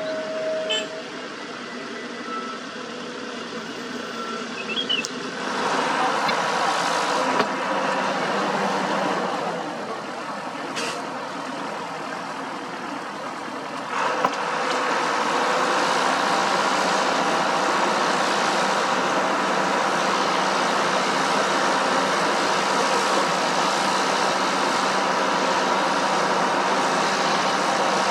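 Heavy diesel road-paving machinery running, swelling louder for a few seconds after about five seconds, easing off, then climbing again about halfway through and holding steady.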